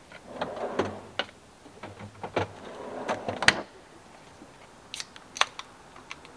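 Rustling and handling noises with a series of sharp clicks and knocks, the loudest knock about three and a half seconds in.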